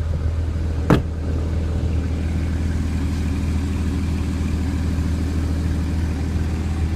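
Porsche Cayman GTS flat-six engine idling with a steady low hum, and a single sharp click about a second in.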